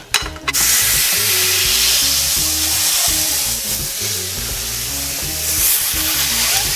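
Ground turkey dropped onto a hot pan: a couple of light clicks, then a loud, steady sizzle that starts suddenly about half a second in. Background music plays underneath.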